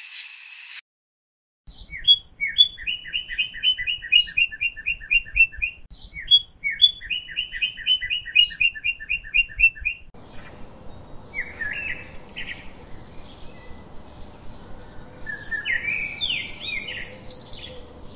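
The tail of a frog's croaking, then a songbird singing twice: each song is a couple of sharp opening notes and then a fast, even trill of about a dozen high notes, lasting about three and a half seconds. After an abrupt change about ten seconds in, scattered high squeaky chirps sound over a steady background hiss.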